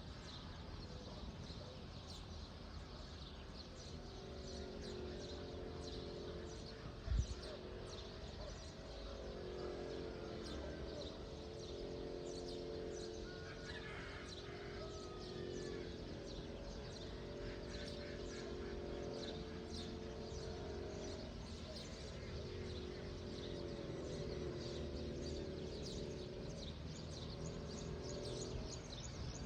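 Birds chirping, many short high chirps throughout with one gliding call about halfway, over a steady low hum. A single low thump about seven seconds in.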